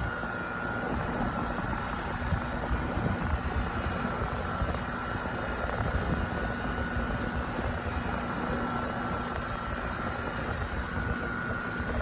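Trane XR13 outdoor air-conditioner unit running: a steady hum from the compressor with the rushing of the condenser fan, unchanging throughout.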